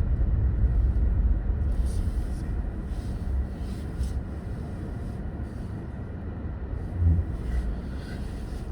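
A car driving: a steady low rumble of engine and road noise that eases off over the first few seconds, with a brief thump about seven seconds in.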